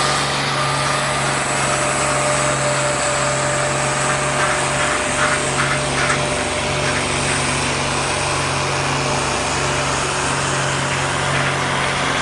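Competition pulling tractor's engine running hard at high revs, a steady, unbroken drone with a little crackle about five seconds in.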